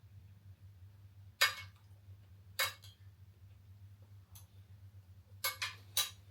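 A metal spoon clinking against a plate of fried rice: two single clinks, then three quick ones near the end, over a faint steady low hum.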